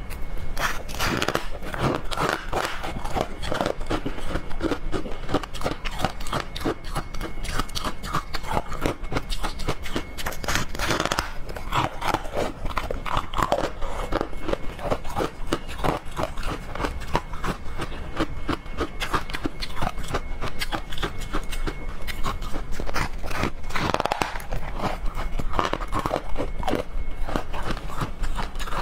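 Close-miked crunching and chewing of frost-covered frozen chocolate pieces: a dense run of crisp cracks and crackles that goes on without a break.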